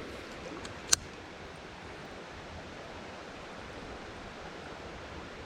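Steady rush of river water flowing over rapids, with one sharp click about a second in.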